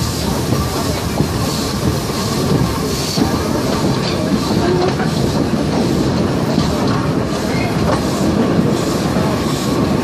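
Museum railway train running along the track: a steady rolling rumble of wheels on rails, with faint high squealing that comes and goes.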